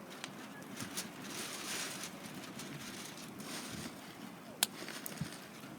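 Wood fire burning: a few sharp crackles and pops over a steady hiss, with a louder pop a little past four and a half seconds in.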